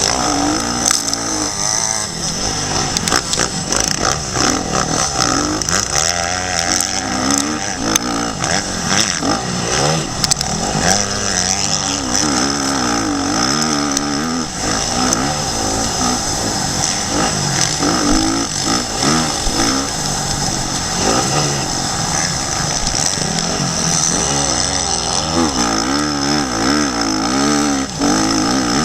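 Motocross dirt bike engine revving up and down over and over as it is ridden, heard through a helmet-mounted action camera.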